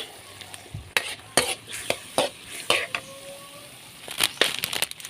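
Chicken liver and pork being stirred in a frying pan: irregular scrapes and knocks of the utensil against the pan over a faint sizzle.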